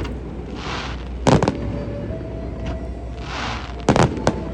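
Aerial fireworks bursting: a rushing hiss followed by sharp booms, twice, with a double bang about a second in and a quick cluster of three bangs near the end. The booms echo off the underside of the concrete bridge.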